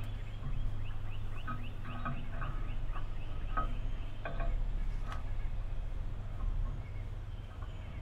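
Wild birds calling: a quick run of short rising chirps in the first few seconds, with scattered lower call notes, over a steady low hum. Two sharp taps come around the middle.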